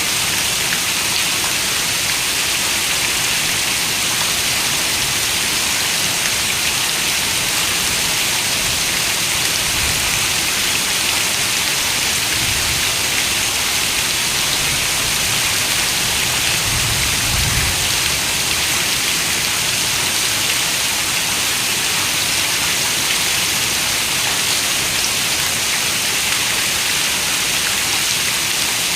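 Steady rain falling: an even, hissing wash of noise. A soft low rumble swells briefly about 17 seconds in.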